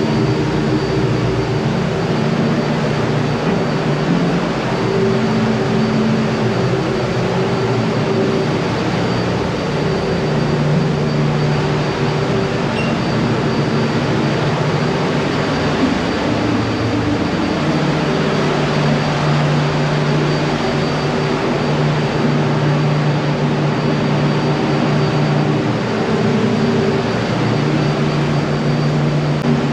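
Steady ship engine-room machinery drone: running auxiliary machinery and ventilation making a constant loud hum, with several low tones swelling and fading slightly.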